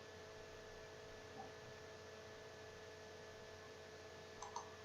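Near silence: a faint steady electrical hum over background hiss, with a couple of faint clicks near the end.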